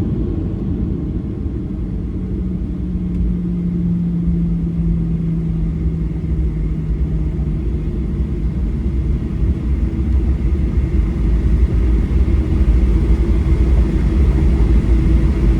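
Cabin noise of a Boeing 737-800 rolling on the ground just after landing: a steady low rumble of wheels and CFM56 engines. An engine tone sags slightly in pitch and fades about halfway through, and a higher hum builds as the rumble grows louder near the end.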